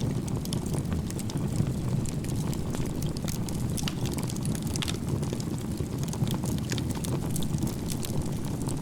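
Wood campfire burning, with a steady low rumble under frequent sharp crackles and pops from the firewood.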